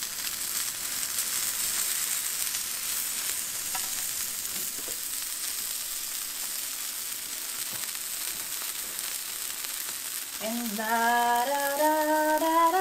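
Quesabirria taco, its tortilla dipped in the consommé's fat, sizzling as it fries on a flat griddle: a steady hiss of hot oil. About ten and a half seconds in, a voice starts singing in long held notes over it.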